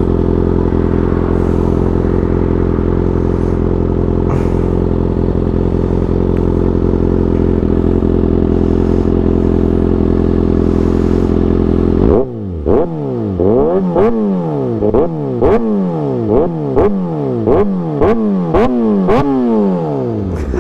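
Kawasaki ZX6R 636 inline-four with an Austin Racing GP1RR exhaust, idling steadily and loud. About 12 seconds in, the throttle is blipped in a rapid series of sharp revs, about two a second, each one rising and falling back.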